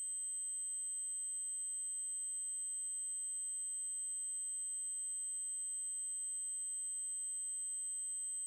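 Electronically generated 8192 Hz triangle-wave tone: a single, very high, unbroken pitch held perfectly steady.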